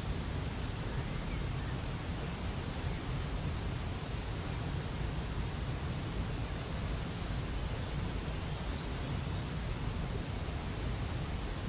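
Waterfall rushing steadily, with a small bird repeating short high chirps over it.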